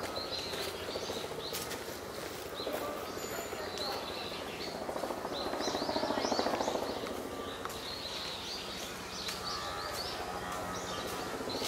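Birds chirping in several clusters of short, quick calls over a steady outdoor background rush, which swells a little about halfway through.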